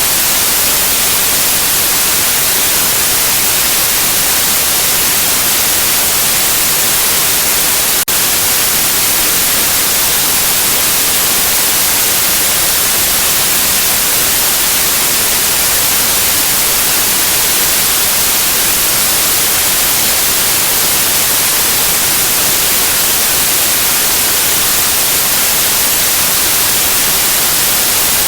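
Steady white noise: an even, unchanging hiss across the whole range, bright in the highs, with one tiny break about eight seconds in.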